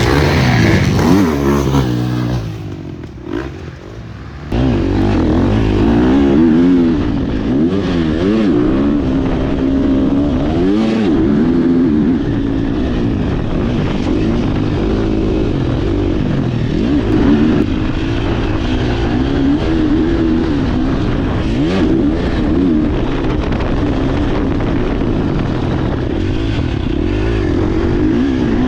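KTM 350 four-stroke single-cylinder motocross bike ridden hard around a dirt track, its engine revving up and down again and again as the throttle opens and closes. The engine drops quieter around three seconds in, then suddenly comes back loud.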